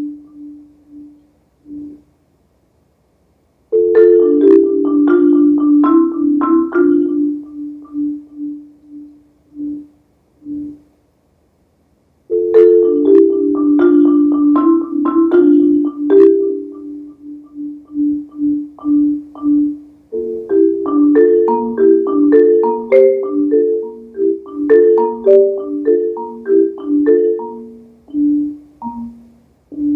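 Marimba played with mallets: phrases of quick struck notes that break off into silence twice, then a busier run of rapid notes from about two-thirds of the way in.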